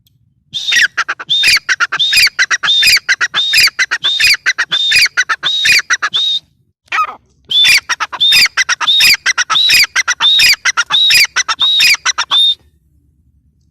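Grey francolin calling: a loud, fast series of repeated high, ringing phrases in two bouts, broken by a short pause about six and a half seconds in.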